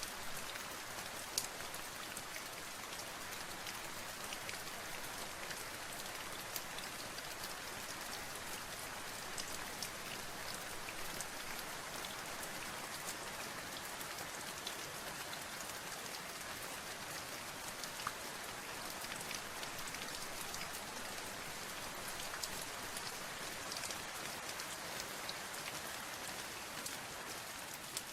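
Steady rain with many separate drops pattering on a hard surface, an even hiss sprinkled with sharper drop ticks.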